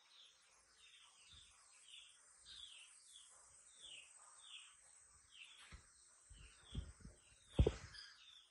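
A bird calling over and over in short falling chirps, about two a second. Several low thumps come in the second half, the loudest a sharp knock near the end.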